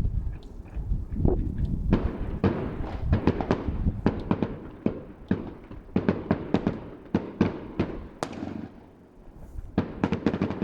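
Fireworks heard from a distance: many sharp bangs and pops at irregular intervals over a low rumble. They thin out briefly near the end before another quick cluster.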